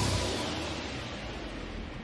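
A hissing, whoosh-like sound effect from the intro sting dying away steadily, with no beat or melody left in it.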